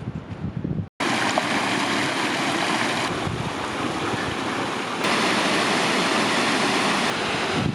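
Wind buffeting the microphone for under a second, then after a cut, a waterfall rushing steadily.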